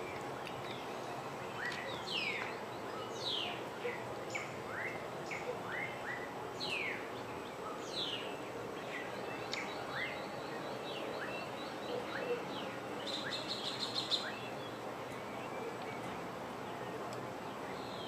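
Several wild birds calling: many short, sweeping whistled notes, some rising and some falling, with a quick run of rapid ticking notes about two-thirds of the way through, over a steady background hiss.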